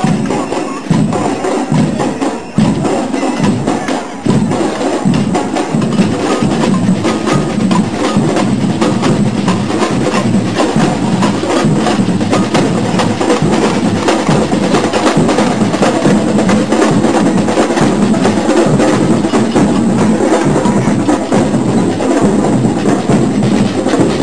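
Percussion band playing in a street procession: dense, fast drumming with sharp, clicky strikes.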